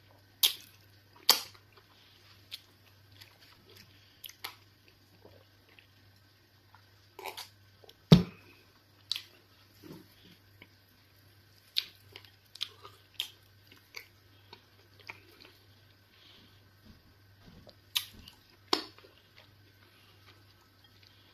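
Close-miked mouth sounds of eating fufu and eba with egusi soup: irregular wet chewing and lip smacks, with a handful of sharp, loud smacks or clicks. The loudest of these comes about eight seconds in.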